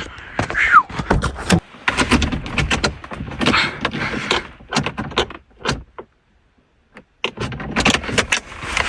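Doors, keys and fittings of a Toyota Tundra pickup being handled: an irregular run of knocks, clunks and rattles, with a short falling squeak about a second in and a brief lull near the end. No engine starts; the truck has sat unused, and its battery needs a jump.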